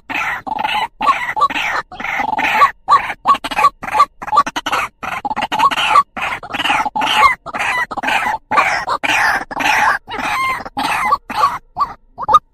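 White-breasted waterhen (ruak-ruak) calling, a call used to lure males. The calls come in a fast, steady run of harsh notes, a few a second, and thin out to single short notes near the end.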